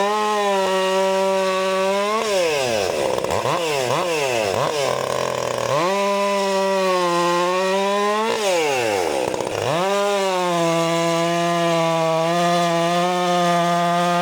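Stihl MS 400 C two-stroke chainsaw run at full throttle in three long stretches, cutting hardwood logs. Between the cuts it drops back and is blipped briefly.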